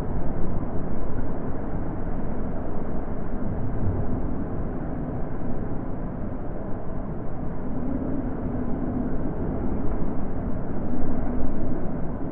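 Wind blowing: a steady low rushing noise that swells and eases in strength, with a stronger swell near the end.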